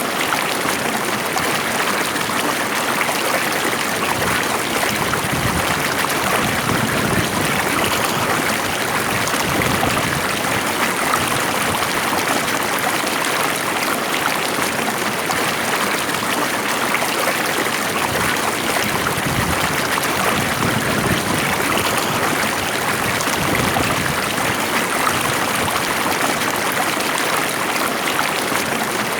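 Stream water flowing steadily, a continuous even rush of running water.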